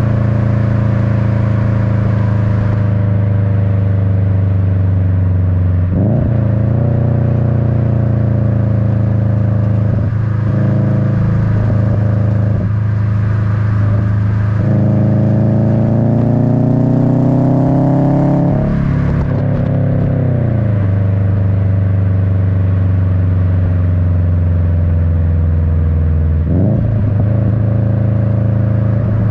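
Exhaust note of a Subaru WRX's turbocharged EJ255 flat-four through an Invidia N1 cat-back dual exhaust, heard close to the tailpipes while driving, with the typical Subaru rumble. The engine holds steady revs, breaks off briefly about six seconds in and again near the end, and around the middle the revs climb for a few seconds, then fall away.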